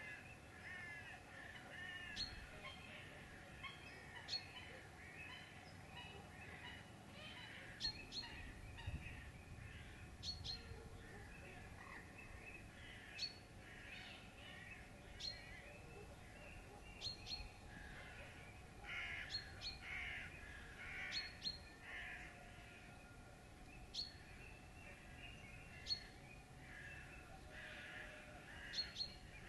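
Birds calling, fairly faint: short, sharp high notes every one to two seconds over a scatter of busier chattering calls.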